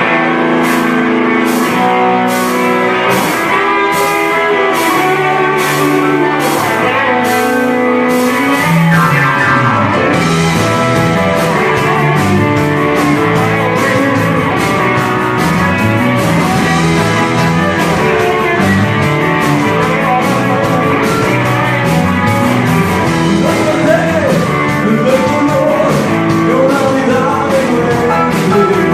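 A rock and roll band playing, with guitars and drums keeping a steady beat, and a singer's voice in the later part.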